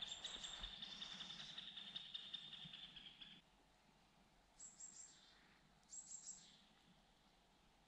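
Faint songbird song: a long, even, fast trill that stops about three and a half seconds in, followed by two short high calls that fall in pitch, about a second and a half apart.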